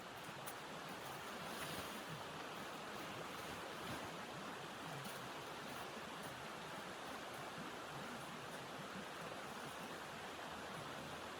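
Steady blizzard wind rushing without a break.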